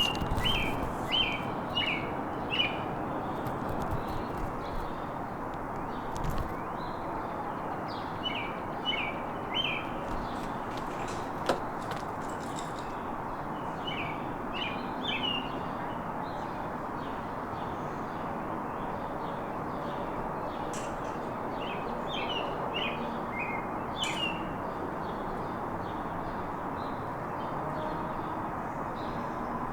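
Backyard birds chirping in short runs of three or four quick notes every few seconds, over a steady background hiss.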